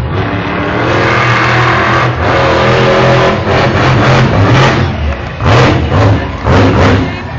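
Monster truck engine revving hard, its pitch climbing and falling, with sharp bursts of throttle about five and a half and six and a half seconds in.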